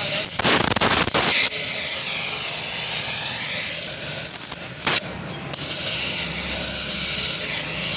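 A harsh burst of scraping or hissing noise lasting about a second near the start, and a brief one about five seconds in, over a steady workshop background.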